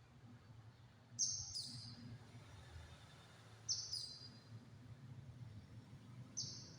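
White-eye (pleci) songbird singing short, high, tight bursts of song, four in all: two in quick succession about a second in, another near the middle and one near the end. A steady low hum runs underneath.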